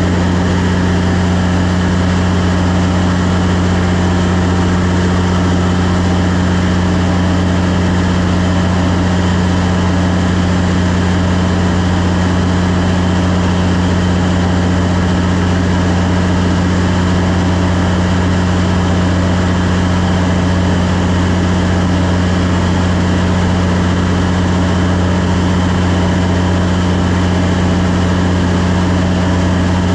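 Cummins 400 kW diesel generator running at a steady, unchanging speed, with a constant low hum.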